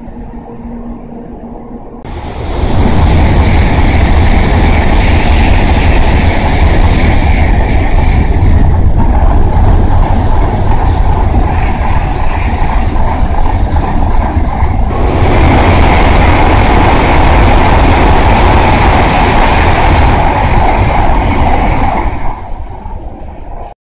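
N700-series Shinkansen bullet train passing at speed: a loud, steady rush of air and wheel noise that builds about two seconds in, holds for roughly twenty seconds with a change in tone partway through, then fades near the end.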